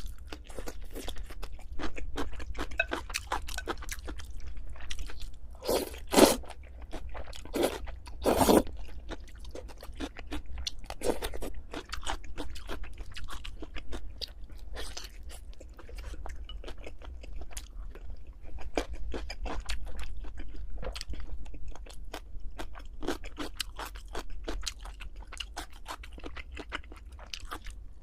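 Close-miked chewing and crunching of food, a dense run of small irregular crackles with a few louder bites about six and eight seconds in.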